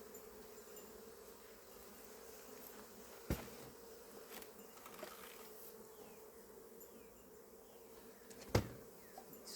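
Honeybees buzzing steadily around an opened hive, a constant hum. Two sharp knocks cut through, one about three seconds in and a louder one near the end.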